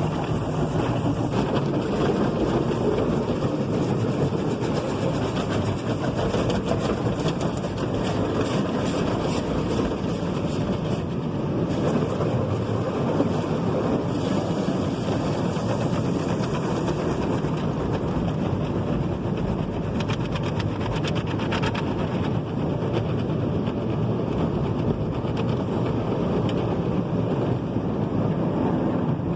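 Automatic tunnel car wash heard from inside the car: rotating brushes scrubbing and water spraying against the body in a steady rumble, with spells of sharper hissing spray about a third and two-thirds of the way through.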